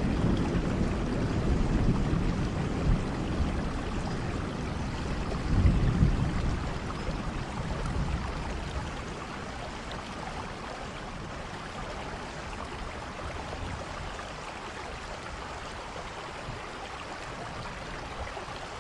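Steady rainfall with low rumbles of thunder in the first half; the thunder swells about six seconds in and dies away, leaving an even rain hiss.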